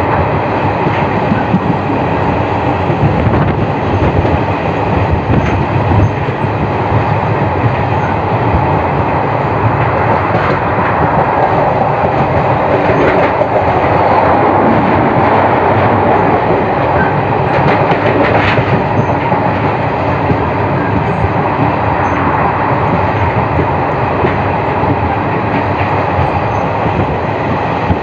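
Garib Rath express coaches running at speed, heard from an open coach doorway: a steady, loud rumble of steel wheels on the rails with clickety-clack, and two sharper clacks about ten and eighteen seconds in.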